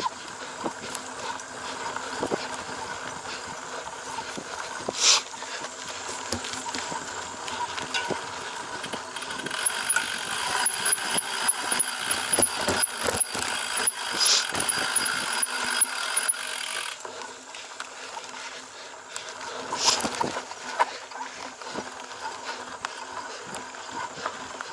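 Cyclocross bicycle ridden hard over a rough course: drivetrain and tyre noise with frequent clicks and knocks from the bumps, denser and steadier for several seconds in the middle.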